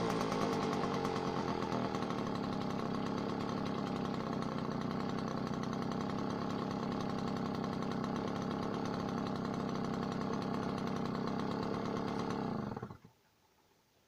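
Small two-stroke engine running steadily, likely the rebuilt Puch E50 moped engine, then cutting off abruptly about 13 seconds in.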